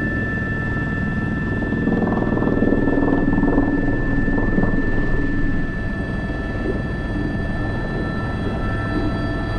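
Airbus H125 (AS350 B3) single-engine turbine helicopter in flight, heard from the cockpit: steady rotor and turbine noise with a constant high whine. It eases slightly about halfway through.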